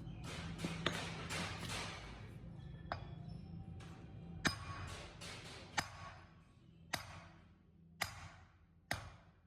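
Sharp metallic taps, roughly one a second, each ringing briefly, over a steady low hum.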